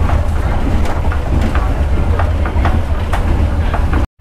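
Passenger sleeper train running on the rails: a heavy steady rumble with irregular clicks and knocks from the wheels on the track. The sound cuts out abruptly just before the end.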